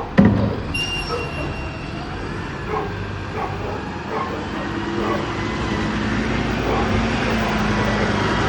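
Garbage truck at work: a loud bang just after the start, then its engine and hydraulics running with a steady hum that slowly grows louder.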